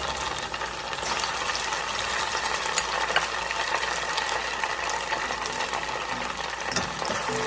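Chicken meatballs frying in oil in a pan: a steady sizzle with scattered crackles.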